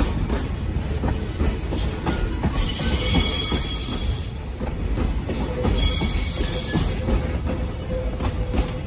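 Container wagons of a freight train rolling slowly past, their wheels clicking steadily over the rail joints. A high-pitched squeal from the wheels comes in about two and a half seconds in and again near six seconds.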